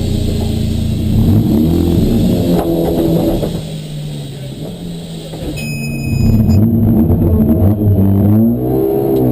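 Race car engines revving, their pitch stepping up and down, quieter for a moment around the middle and sweeping up and back down near the end.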